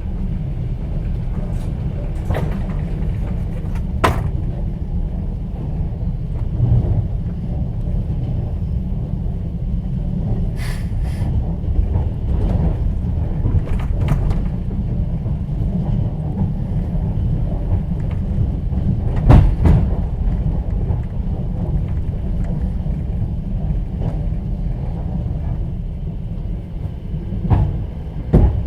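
Inside a moving passenger train carriage: the steady low rumble of the wheels and running gear, with a few sharp knocks and clicks. The loudest knock comes about two-thirds of the way through.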